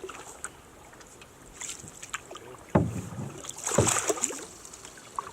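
Canoe being paddled, with the light splashes and drips of paddle strokes and scattered small knocks. Two louder knocks come about three and four seconds in.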